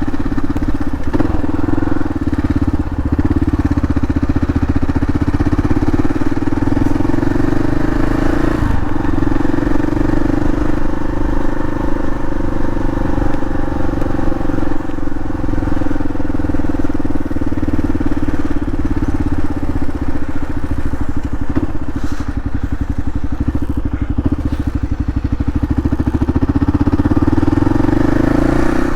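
Kawasaki KLR 650's single-cylinder four-stroke engine running steadily under way, picked up by a microphone inside the rider's helmet. The engine pitch dips briefly about nine seconds in and rises again near the end.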